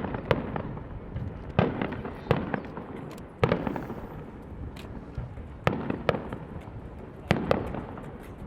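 Aerial fireworks bursting, a series of sharp bangs every second or so, some in quick pairs, each trailing off in a rumbling echo.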